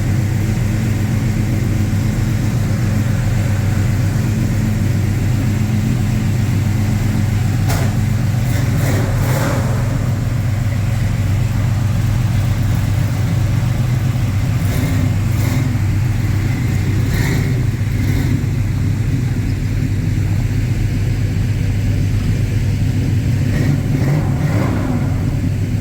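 Car engine idling steadily with a low, even tone that holds unchanged throughout.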